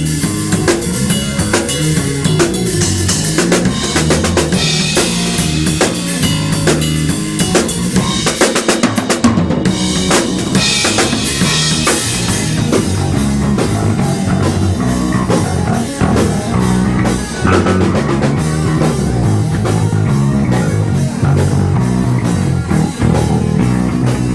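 Rock band playing, the drum kit to the fore with kick drum, snare and cymbals over a stepping bass line.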